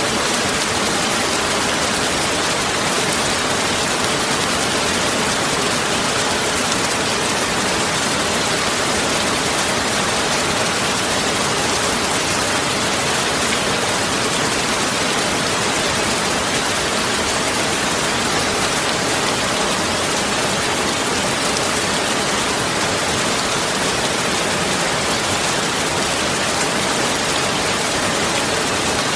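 Steady heavy rain falling, a dense even hiss with no thunder in this stretch.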